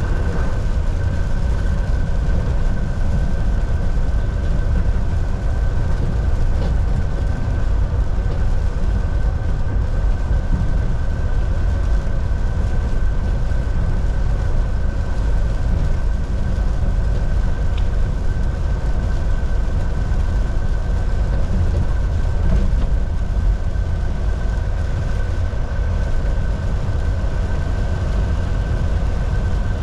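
Volvo VNL 760 semi truck cruising at highway speed, heard from inside the cab: a steady deep engine and road rumble with a thin constant high whine over it.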